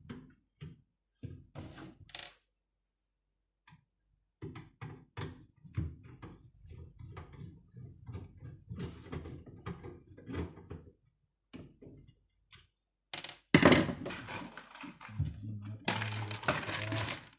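Knocks and clatter of tools and metal parts being handled while a microwave's fan motor is taken out. Near the end comes a louder stretch of scraping and rattling over a steady low hum.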